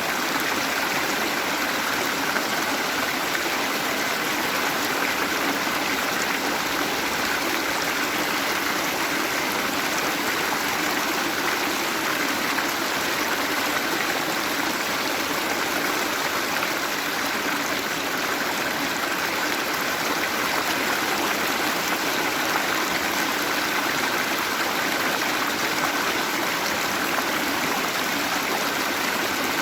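Waterfall: water falling and running over rocks in a steady, unbroken rush.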